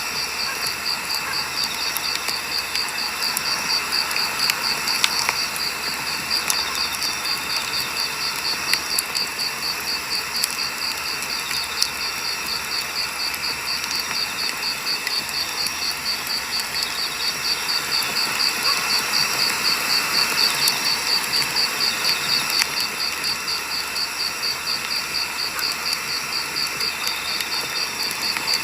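Wood fire burning with a steady hiss and scattered sharp crackles and pops. A cricket chirps throughout in a high, even pulsing rhythm.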